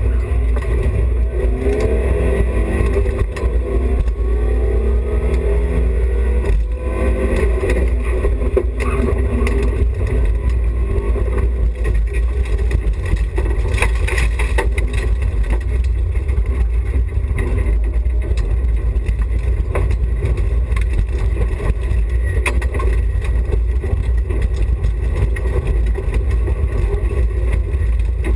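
BMW E30 316i rally car's four-cylinder engine running hard, its revs rising and falling with a gear change about six seconds in, over a steady low rumble. A few sharp knocks come about halfway through.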